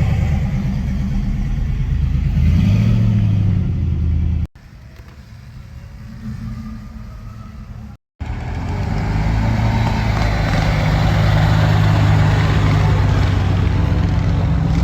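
Cammed V8 truck engine running with a choppy, pulsing idle, revving up briefly about three seconds in. After an abrupt cut the sound drops to a quieter stretch, then a loud engine runs steadily again from about eight seconds on.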